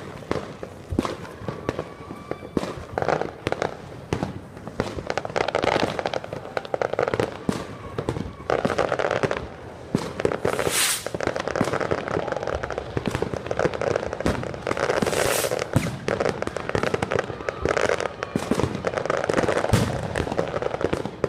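Fireworks going off in quick succession: a continuous stream of bangs and crackling, with a few short whistles in the first seconds and two loud hissing bursts around the middle.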